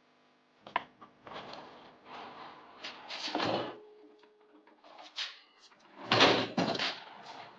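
Objects being handled and shifted around: irregular knocks, clunks and scrapes, with the loudest clatter about six seconds in.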